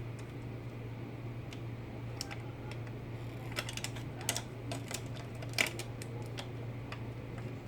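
Small plastic parts of a miniature toy refrigerator clicking and tapping as they are fitted into place: a scatter of light clicks, busiest and loudest a little past the middle, over a steady low hum.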